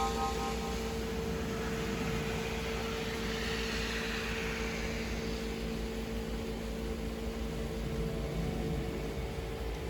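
Small AC vacuum pump running steadily with an even hum, evacuating a car's air-conditioning system; it cannot pull the system below about 20 inHg instead of the 30 it should reach.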